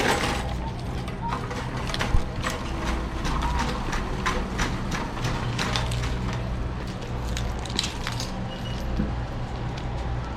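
Shop ambience: a steady low hum with many light clicks and knocks, like items and a cart being handled, and faint background voices or music.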